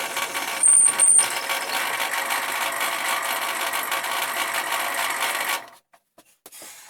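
Electric drill running steadily as it bores through timber, with two short high squeals about a second in; the motor stops near the end, followed by a few light knocks.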